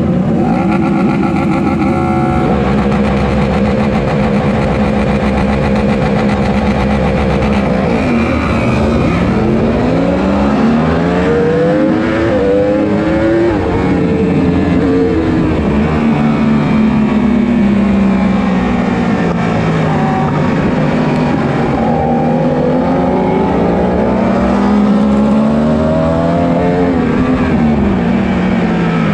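1000 cc superbike engines at racing revs: a steady high note for the first couple of seconds, then several bikes accelerating and easing off with overlapping rising and falling pitches, and later one engine climbing and dropping in pitch through the gears.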